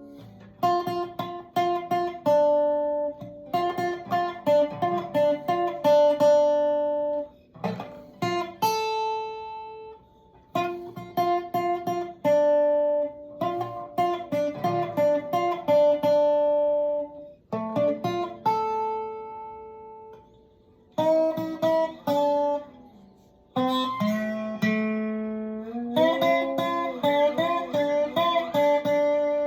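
Guitar music: phrases of plucked, ringing notes separated by short pauses. Near the end the notes waver and bend in pitch, as a slide guitar does.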